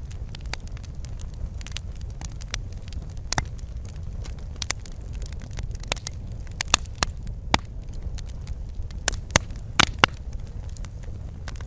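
Wood fire crackling: a steady low rumble of the burning logs with irregular sharp pops and snaps, which come thicker and louder in the second half.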